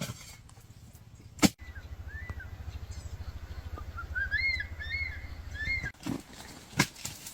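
A small bird chirping a short, repeated arching phrase over a low, steady rumble. A sharp knock comes about one and a half seconds in, and another near the end.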